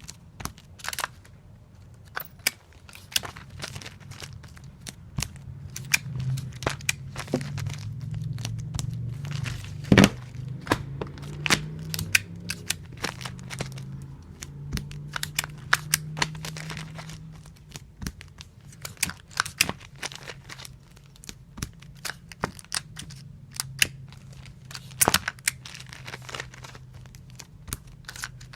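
Adhesive tape being pulled off a tape dispenser and torn off again and again as comic books are taped: irregular crackling, tearing and crinkling with sharp clicks, the loudest about ten seconds in, over a low hum.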